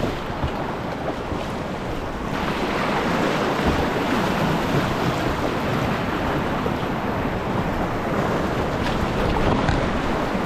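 Whitewater rapid rushing steadily, with wind noise on the microphone. The water gets fuller and louder about two seconds in.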